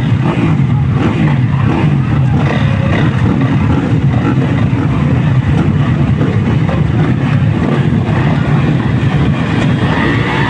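Motocross dirt bike engines running hard and revving, the pitch rising and falling as the riders work the throttle.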